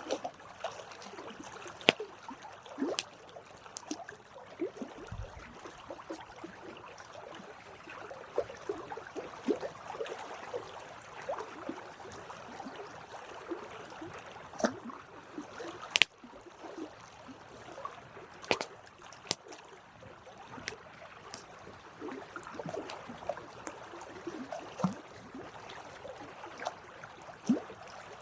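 Campfire of burning wood crackling, irregular sharp pops and snaps over a soft steady hiss, with a few louder snaps.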